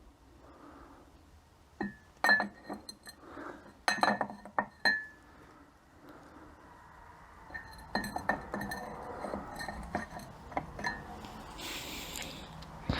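Metal parts of a 42RE automatic transmission's overdrive clinking together as they are handled: a few sharp clinks that ring briefly, then a busier stretch of light clinking and rattling in the second half.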